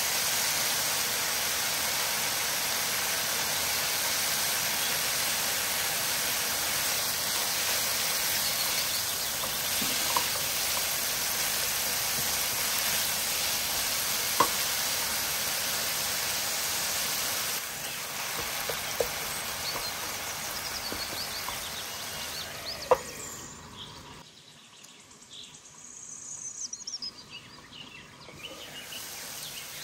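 Minced chicken sizzling as it fries in a nonstick pan, with a few sharp clicks as a silicone spatula stirs it. The sizzling eases off about two-thirds of the way through, then drops low and comes back fainter under a glass lid near the end.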